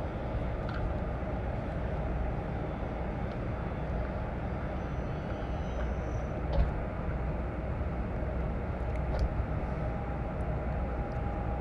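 Wind rumbling steadily on a phone microphone, with a single thump about six and a half seconds in.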